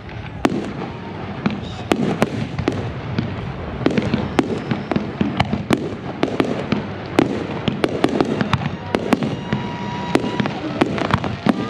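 Aerial fireworks display: a dense, irregular run of sharp bangs and crackling reports, several a second, over a continuous rumble of bursting shells.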